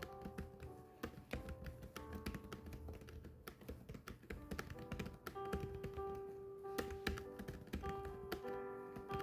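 Typing: quick, irregular keystroke clicks over soft background music with held notes.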